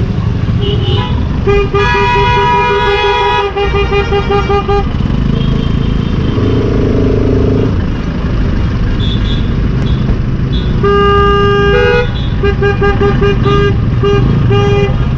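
A vehicle horn beeping in fast repeated pulses, in two long spells, about a second and eleven seconds in, over the steady rumble of road traffic and engines.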